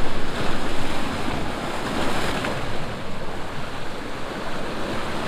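Rushing water where a waterfall stream pours through a rocky chute into incoming sea surf: a steady, fairly noisy wash, with wind buffeting the microphone.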